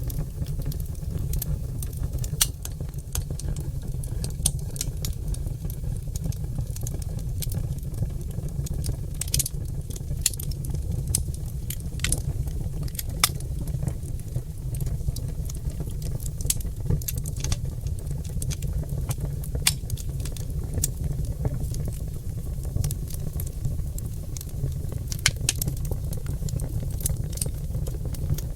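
Oak logs burning in a fireplace, crackling with frequent irregular sharp pops over a steady low rumble.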